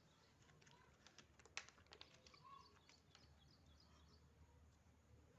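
Faint, repeated short chirps of small birds over quiet background noise, with a few light clicks in the first half, the loudest about a second and a half in.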